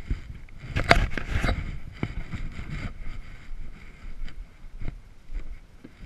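Irregular knocks and clanks of tools and metal parts being handled during a roadside tire change, with a loud cluster of clatter about a second in.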